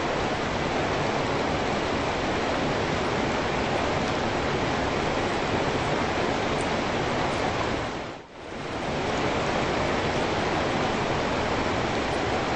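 Steady rain falling on wet pavement, an even hiss. About eight seconds in it fades out almost to nothing and straight back in.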